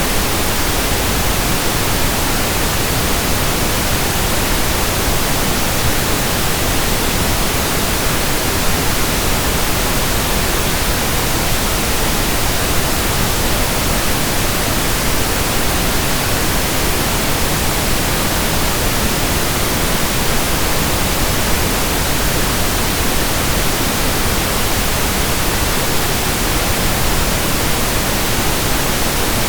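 Pink noise: a steady, even hiss with no change or break.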